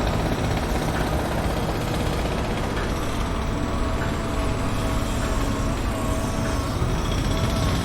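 Construction-site machinery: heavy engines running steadily with a low rumble. A faint whine runs over it, with light ticks about once a second.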